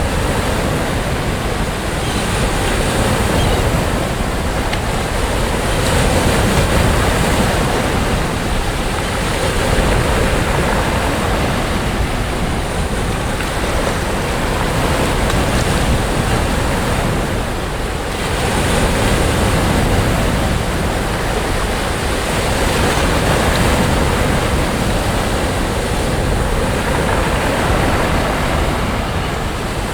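Sea waves breaking and washing on a sandy beach, a continuous surf that swells and eases, with a dip about eighteen seconds in. Wind buffets the microphone.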